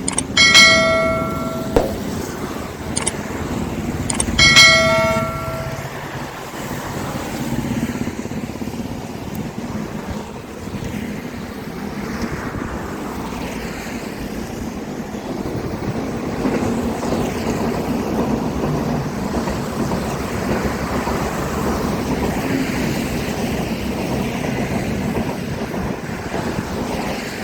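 Train running fast across a bridge, a steady rumble and rattle of the wheels. Near the start come two short ringing tones about four seconds apart, each lasting a little over a second.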